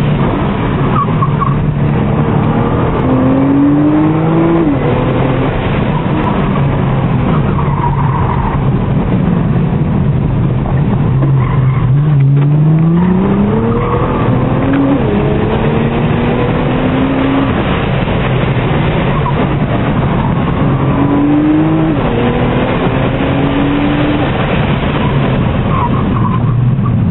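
Nissan R35 GT-R's twin-turbo V6, heard from inside the cabin while driven hard on an autocross course. The revs climb and drop back several times as the car accelerates, shifts and slows between corners.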